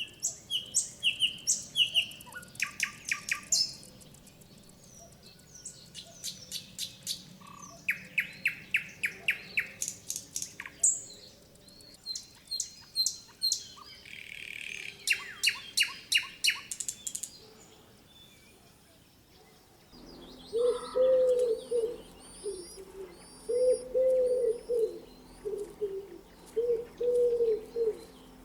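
Birds chirping and singing in quick high trills and repeated chirps. About two-thirds through, a lower repeated call begins under the high chirps.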